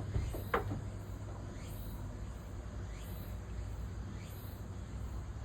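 Insects chirping outdoors in a slow, even rhythm, about one rising chirp every second and a half, over a steady low hum. There are a couple of short sounds in the first second.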